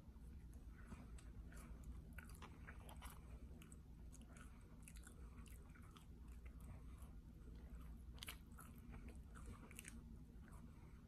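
Faint close-up mouth sounds of a person eating McDonald's French fries: soft, irregular chewing clicks and smacks over a steady low hum.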